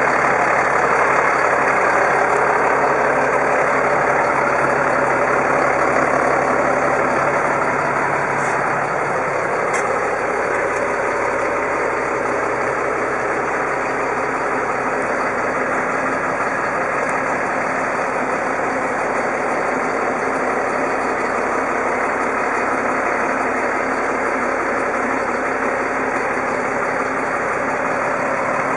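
GMC TC7C042 medium-duty truck's engine running steadily at idle, dropping slightly in level about seven seconds in.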